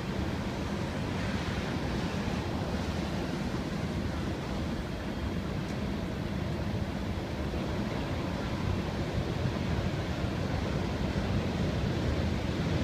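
CSX freight train rolling past, a steady rumbling noise of wheels on the rails.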